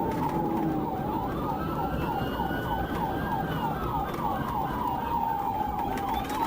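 Police sirens in a pursuit: one wails slowly up and down while another yelps in quick sweeps, about four or five a second, over steady low road noise.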